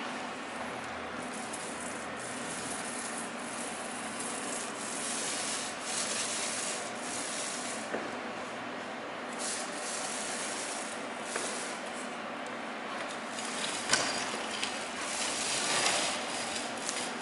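Paintbrush bristles rubbing paint onto a wall edge in repeated strokes, a steady scratchy brushing, with one sharp tap near the end.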